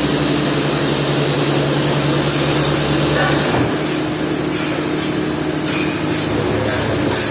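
Sawmill machinery running steadily with a low engine hum, joined by short hissing bursts from about two seconds in.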